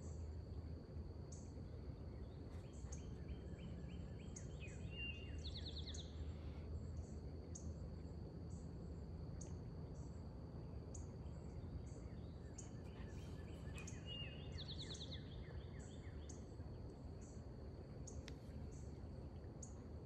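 A songbird sings a short phrase of quick notes ending in a trill, twice, about eight seconds apart. Behind it is a faint steady outdoor background with a high thin tone and a short high note repeating about once a second.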